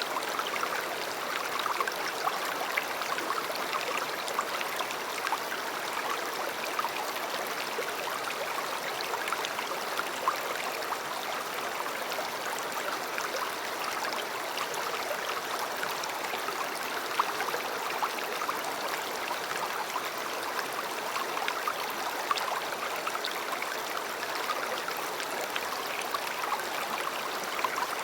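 River water flowing, a steady rushing with many small splashes and trickles.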